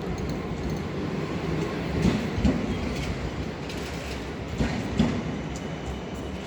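Electric city tram passing, its steel wheels rumbling on the rails. There are two pairs of clunks, about half a second apart, as the wheels cross a rail joint.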